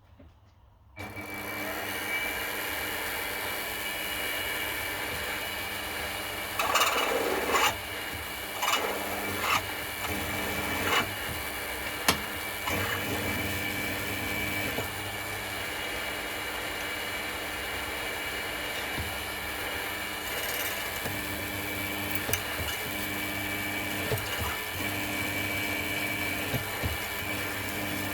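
Mini milling machine switched on about a second in and running steadily, its motor giving a constant hum with a high whine. A few louder bursts break in between about six and eleven seconds in.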